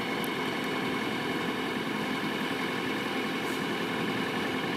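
An engine idling steadily, with an even hum that does not change.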